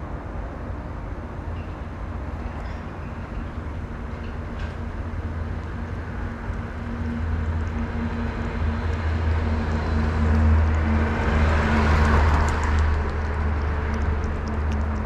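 A motor vehicle's engine humming low and steadily, with road noise that swells to its loudest about ten to thirteen seconds in and then eases off.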